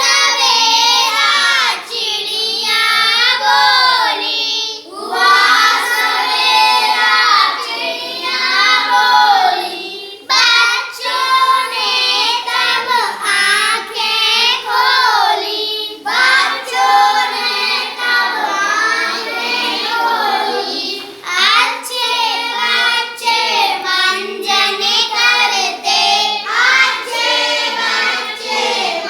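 A child singing a Hindi children's rhyme without accompaniment, in short melodic phrases with brief pauses for breath.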